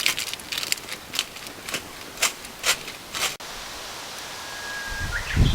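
Sharp crackles and pops from a charcoal fire in a camping fire pit. After about three and a half seconds the sound cuts abruptly to a steady outdoor hiss, with a low rumble near the end.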